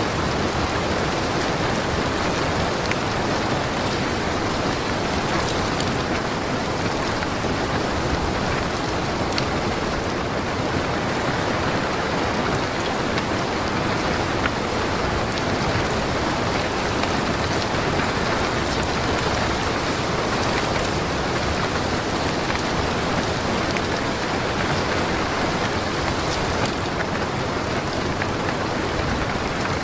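Strong wind blowing, a steady loud rushing noise that never lets up, with a fluctuating low rumble.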